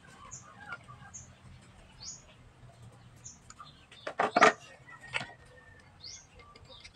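Short, rising high chirps of a small bird repeat every second or so. About four seconds in come a few sharp knocks and clicks, the loudest sounds, as a car starter motor is picked up and handled, with another knock a second later.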